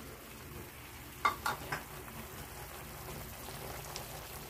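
Stir-fry of beef, broccoli and cauliflower sizzling steadily in sauce in a wok, with three short sharp clicks about a second and a half in.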